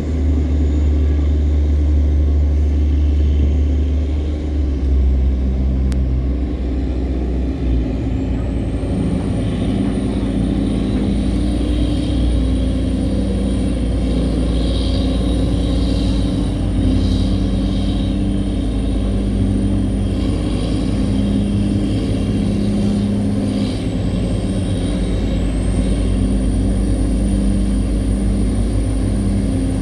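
A tugboat's diesel engine running steadily, a deep, even rumble with no pauses.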